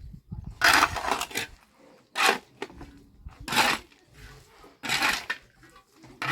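Five short, gritty scraping strokes, about one every second and a quarter, from a hand tool working on a building site.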